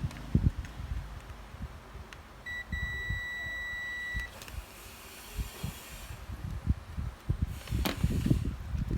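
Electronic beeper sounding a short blip, then a steady high beep about a second and a half long, over light knocks and handling rustle.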